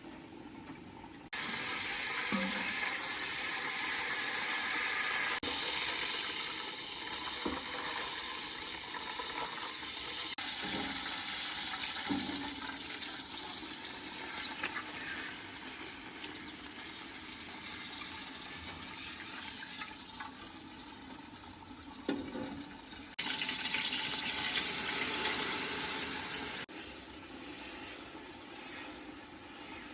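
Water running and splashing, in several cut-together shots, with a few knocks of handling. It is loudest for a few seconds near the end.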